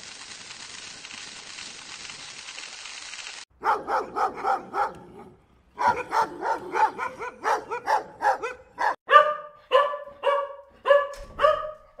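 German Shepherd dog barking repeatedly, after a few seconds of faint steady hiss. A quick run of barks, a short pause, then barks about two a second.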